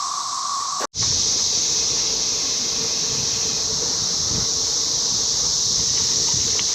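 Loud, steady chorus of many cicadas, a dense high-pitched hiss, with some wind rumble on the microphone. The sound drops out for an instant about a second in, then carries on as before.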